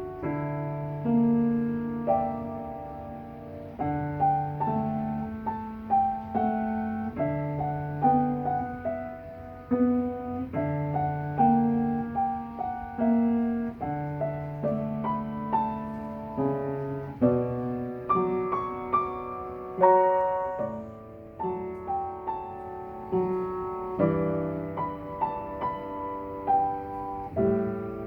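Solo piano playing a melody over repeated low bass notes, each note struck and left to ring.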